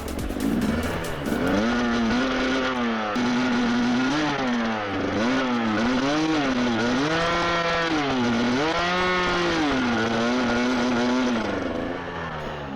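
Husqvarna TE250i single-cylinder two-stroke dirt bike engine revving up and down again and again as the throttle is worked, its pitch rising and falling roughly every second, dropping off near the end.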